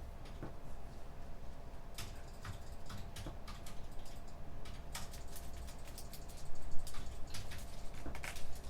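Typing on a computer keyboard: irregular key clicks, sparse at first and coming faster about halfway through, over a steady low hum.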